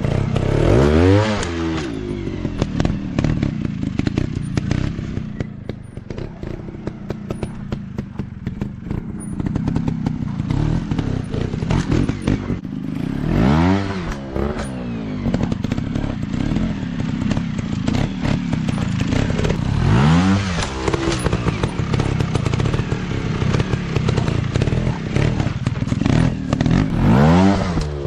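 Off-road dirt bike engines running, rising in pitch and dropping back again four times, with clattering and thuds mixed in.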